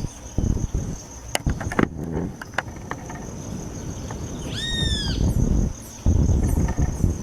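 Steady high insect trill, cricket-like, with wind buffeting the microphone in gusts, loudest near the end. A few sharp clicks come between one and three seconds in, and a single short arched bird call, rising then falling, sounds a little before five seconds.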